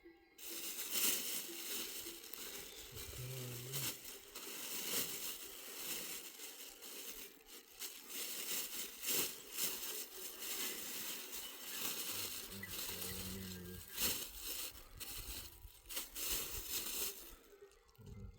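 Dense rustling and crinkling noise with many sharp crackles, starting suddenly about half a second in and stopping shortly before the end.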